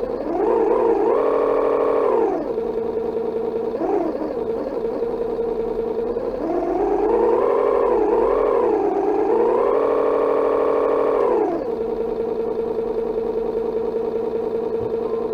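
Simulated engine sound from an RC engine sound module played through its small speaker and heard muffled. It revs up and holds high, drops back to idle, revs again a few times, then idles steadily before cutting off suddenly at the end.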